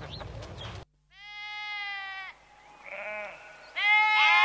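Livestock bleating: a long bleat, a short one, then a loud bleat starting near the end, each a single wavering pitched call. Before them, another animal sound cuts off abruptly under a second in.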